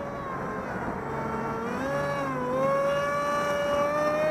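Electric RC model propeller whine from a 2200kv brushless motor turning a 6x4 prop: a steady pitched drone that wavers and then rises in pitch through the second half as the throttle comes up. Wind rushes on the microphone underneath.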